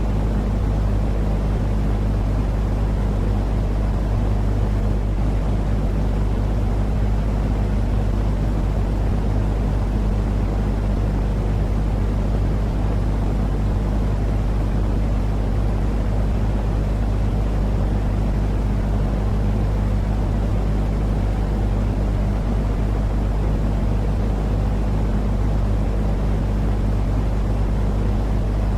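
Steady, unchanging low rumbling noise with a constant underlying hum, played as a sleep-aid noise for soothing babies.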